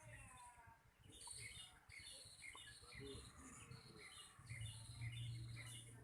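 Small songbirds chirping faintly, short high calls repeated about two or three times a second.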